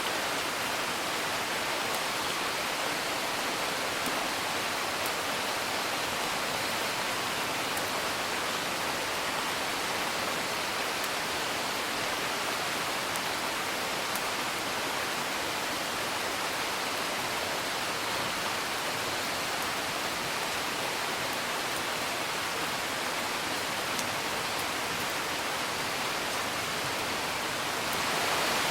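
Steady rain falling, a dense even hiss, with a few faint sharp pops from a crackling fire scattered through it.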